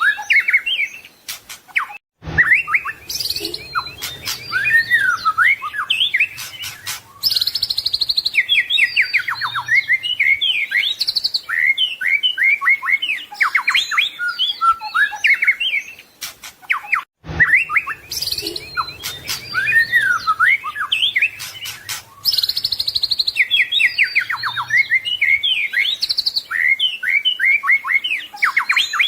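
White-rumped shama (murai batu) singing a rich, varied song of whistles, fast trills and sliding notes, full of mimicked phrases. The same sequence repeats about every fifteen seconds, with a brief break before each repeat.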